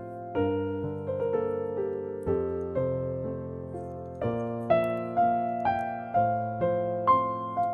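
Gentle background piano music: a slow melodic line over soft chords, each note struck and fading.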